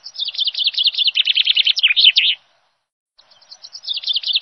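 Songbird song: a fast run of high chirping notes, each sweeping downward, lasting about two and a half seconds, then the same phrase again after about a second of silence.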